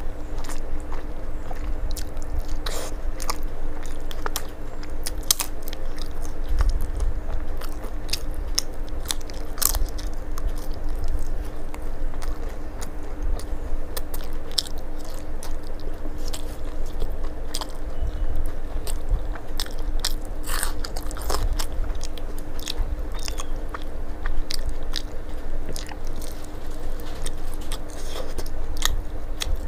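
A person chewing and biting food with frequent crisp crunches, eating rice and fried vegetables by hand. A steady low hum runs underneath.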